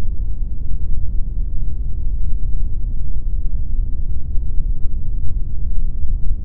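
Steady pink noise, a continuous even rush that carries most of its weight in the low end and fades out toward the top.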